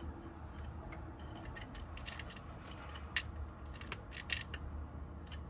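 Light, irregular metal clicks from a Honda door lock cylinder and its small wafer tumblers being handled while it is rekeyed, over a steady low hum.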